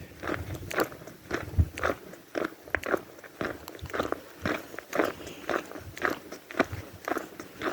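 Crunching footsteps on a gravel road, about two steps a second, walking at an even pace.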